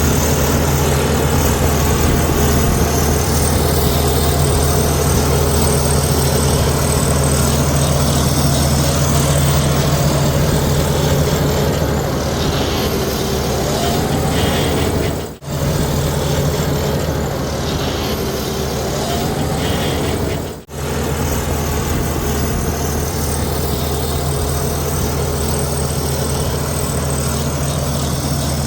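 Heavy diesel engine of earthmoving machinery running steadily with a deep, even drone, with a rising whine twice in the middle. The sound cuts out abruptly for an instant twice.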